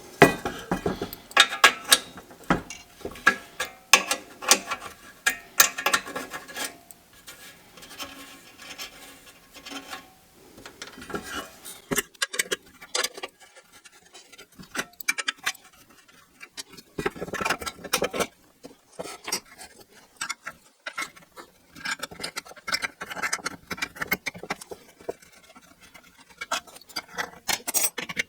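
Irregular clicks, clinks and rattles of small metal parts and hand tools being handled on an old Coleman 500 camp stove, in uneven bursts with short pauses.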